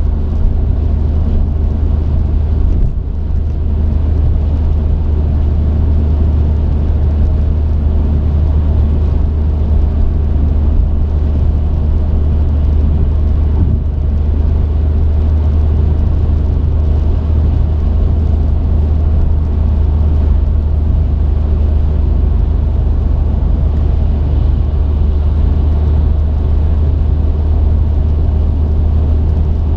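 Truck engine and road noise heard inside the cab as a steady, deep drone, holding even throughout with only a brief slight dip about three seconds in.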